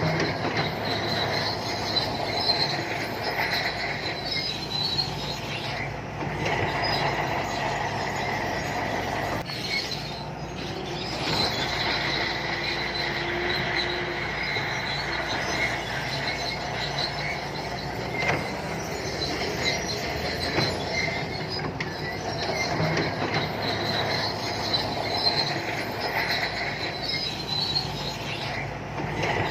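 Shantui crawler bulldozer at work: its diesel engine runs steadily while the steel tracks squeal with high, wavering tones.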